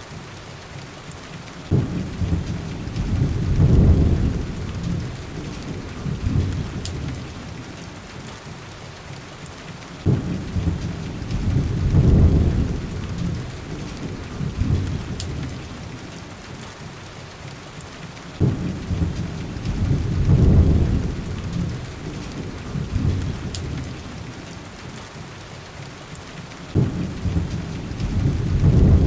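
Steady heavy rain with low rolls of thunder about every eight seconds, each starting suddenly and swelling for a couple of seconds before fading. A few faint, sharp fireplace crackles are heard over it.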